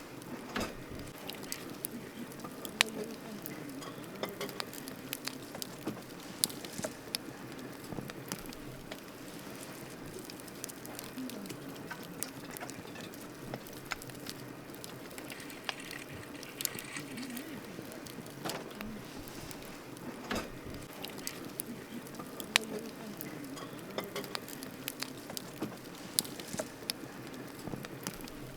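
Wood campfire crackling: a steady low hiss of burning with irregular sharp pops and snaps, a few of them much louder than the rest.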